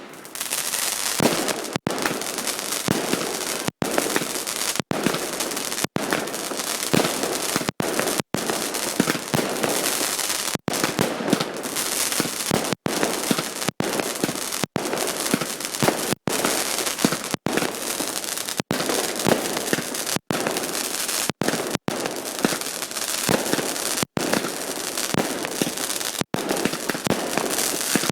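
Fireworks display: a dense, continuous run of bangs and crackling from bursting shells, with louder single bangs scattered throughout.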